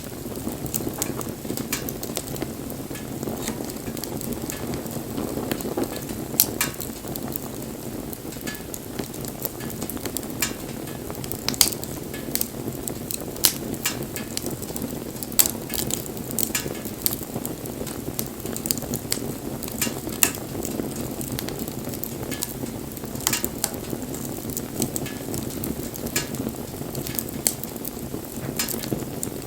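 Wood bonfire burning: a steady low rush of flame with irregular sharp crackles and pops from the burning wood, several a second, a few of them louder.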